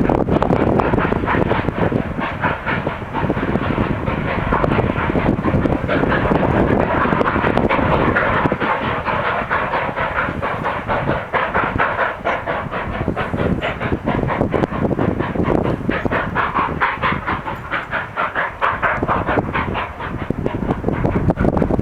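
Steam-hauled passenger train running, a steady loud clatter with a fast, even rhythm of beats.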